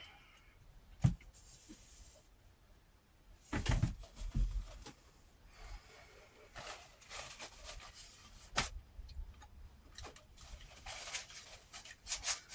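Eating noises up close: a sharp knock about a second in, a louder clatter of a utensil on a plate a few seconds in, then a run of small irregular clicks and smacks of chewing.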